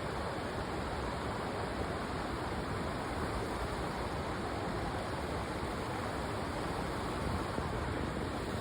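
Steady rush of flowing river water and small waterfalls.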